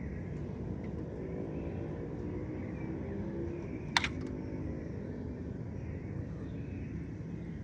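Outdoor city-park ambience: a steady low rumble of distant traffic with faint bird chirps over it, broken by a single sharp click about four seconds in.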